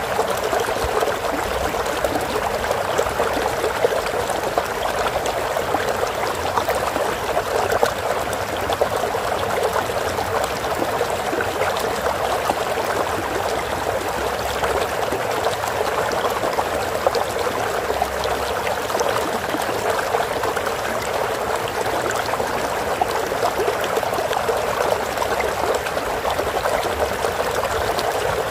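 Steady flowing water of a stream, running and trickling continuously.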